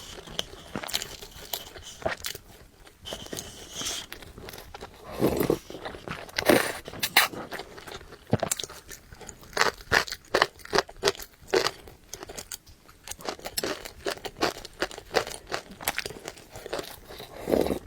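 Close-miked eating: a person chewing and biting, with crisp mouth clicks and crunches throughout and a few louder bursts.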